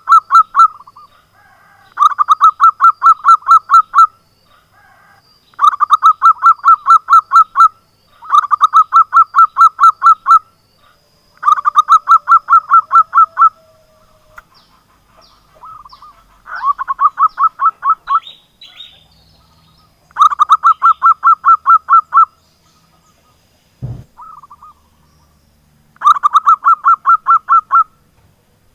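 Zebra dove (perkutut) calling in repeated bursts of rapid, evenly spaced notes, each burst about two seconds long, seven times over with pauses of a couple of seconds. A single dull thump comes between the last two bursts.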